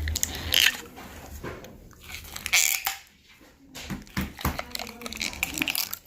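Irregular crackles and crunches of a plastic slime container being handled and opened, with short scraping bursts.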